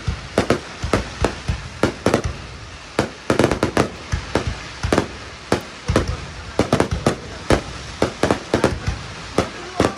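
Fireworks display: aerial shells bursting in a rapid, irregular series of sharp bangs, several a second.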